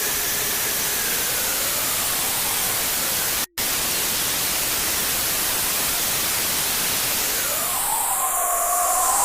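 Loud electronic harsh noise: dense static hiss with slow sweeping tones gliding up and down through it, cutting out for a split second about three and a half seconds in, with more crossing sweeps coming in near the end.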